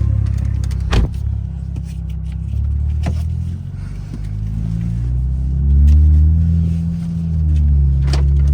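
BMW 335i's turbocharged N55 straight-six running as the car drives off, its note rising and falling in the second half as it pulls. Sharp knocks about one and three seconds in.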